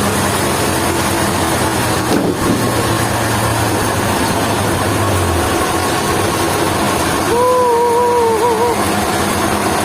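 Heavy machinery running steadily with a loud, even mechanical noise. A brief wavering tone sounds over it from about seven seconds in.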